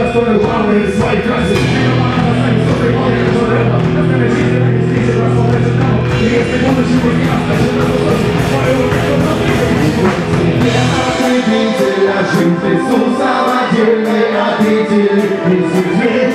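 Live rock band playing loudly. The deep bass drops out about eleven seconds in, leaving the higher instruments.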